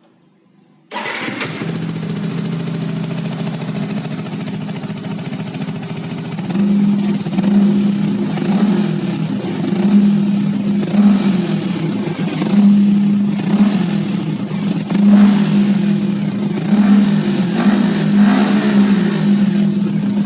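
Yamaha R15 VVA's 155 cc single-cylinder engine running through a Tridente three-mode full-system exhaust set to its quietest silent mode. It comes in abruptly about a second in and idles steadily. From about six seconds in it is blipped with short throttle revs, roughly one a second.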